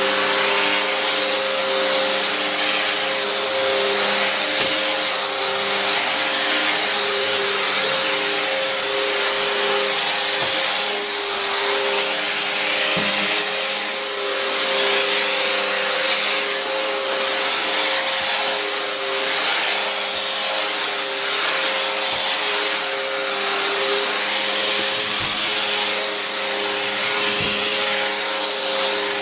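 Hoover Nano Light 12-amp bagless upright vacuum cleaner running steadily while vacuuming, a motor hum with a high whine over rushing air. Its loudness swells a little as it is pushed back and forth, with a few faint knocks.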